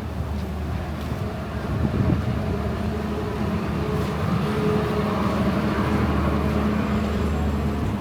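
Street traffic: a motor vehicle's engine running close by, its hum swelling a little in the second half as it passes.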